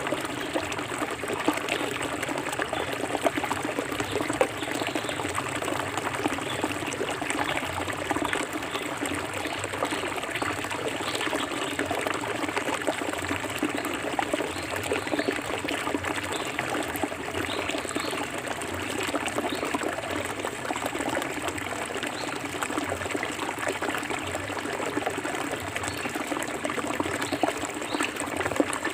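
Shallow forest river flowing and splashing steadily over rocks, a continuous bubbling, trickling rush of water.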